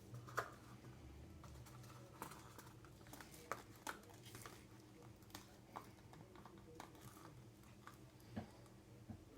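Faint, irregular small clicks and taps over a low steady hum, the kind of light handling noise made by small objects on a work surface.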